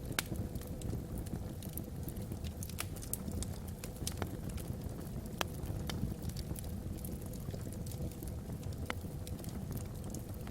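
Wood fire burning in a fireplace: irregular crackles and sharp pops from the logs, a few louder than the rest, over a steady low rumble.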